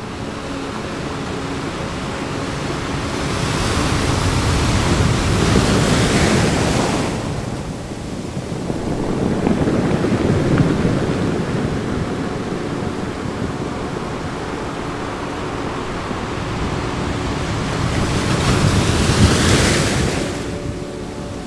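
Ocean waves breaking and washing ashore in slow surges. The biggest come about five seconds in and near the end, with a smaller one around ten seconds.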